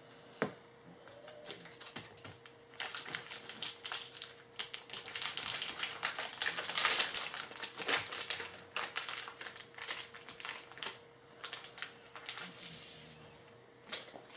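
Trading cards and their packaging being handled by hand: a few scattered clicks, then several seconds of dense crackling, rustling and clicking in the middle, dying down toward the end.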